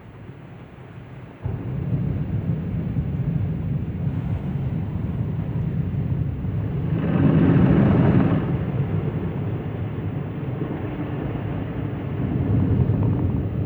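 Tammermatic T700 rollover car wash working over the car, heard from inside the car as a steady low rushing noise. It starts suddenly about a second and a half in, swells in the middle and swells again near the end.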